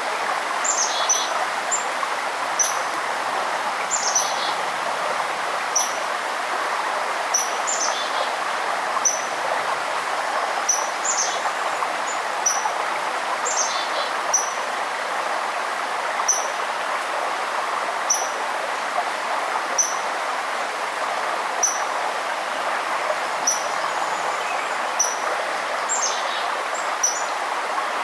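Forest birds calling over the steady rush of a stream: one bird repeats a short, high chirp about every second and a half, while others add a few quick falling notes.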